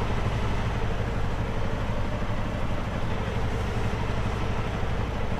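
Semi truck's diesel engine idling steadily, a constant low drone.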